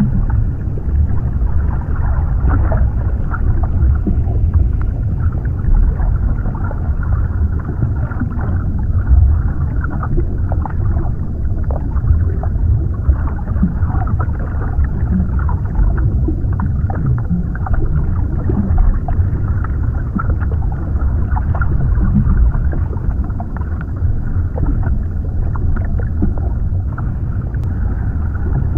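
Underwater ambience: a steady, deep rumbling wash of water, with scattered faint short ticks and gurgles over it.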